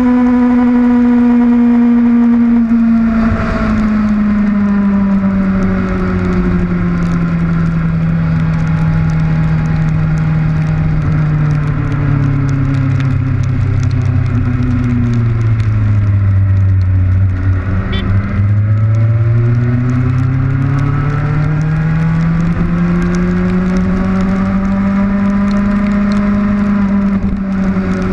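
Kawasaki Ninja motorcycle engine under way: its note sinks slowly as the bike slows, bottoms out a little past the middle, then climbs again as it speeds back up. A steady rush of wind and rain hitting the camera runs beneath it.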